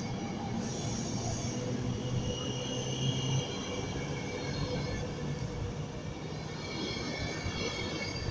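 Passenger coaches of a train rolling past at speed: a steady rumble and rush of wheels on the rails, with a few thin high squealing tones from the wheels.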